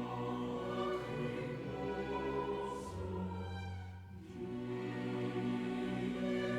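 Orchestral classical music of slow, sustained chords with strings, playing as a song's intro. The listeners recognize it as funeral music.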